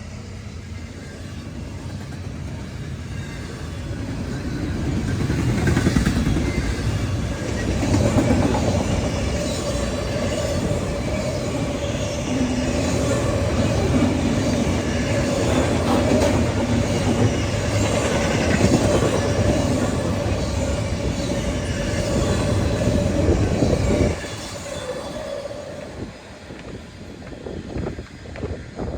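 Train passing close by: rail cars rumbling and wheels clicking over the rails, with a steady high squeal from the wheels through the middle. It builds over the first several seconds and drops off sharply near the end as the train goes by.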